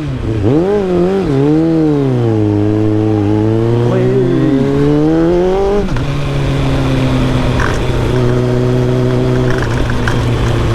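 Kawasaki ZX-7R's inline-four engine, heard through an exhaust microphone, rising and falling in pitch twice with the throttle, then pulling with a slowly climbing note. About six seconds in it drops to a lower, steady, even note.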